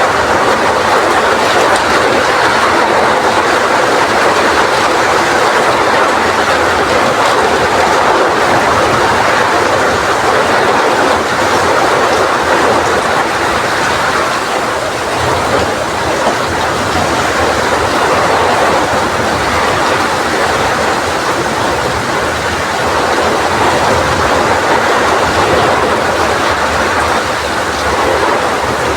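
Heavy rain falling in strong wind: a loud, steady rushing hiss that swells and eases slightly without any break.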